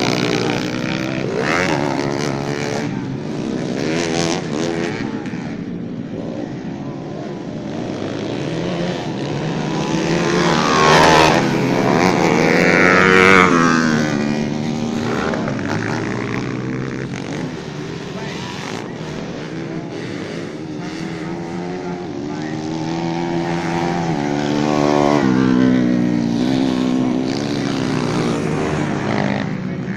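Several racing dirt bike engines revving and passing, their pitch rising and falling as the riders work the throttle. The loudest pass comes about eleven to fourteen seconds in, with another about twenty-five seconds in.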